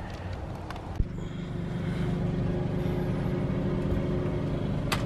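A machine running steadily at a constant pitch, starting just after a sharp click about a second in.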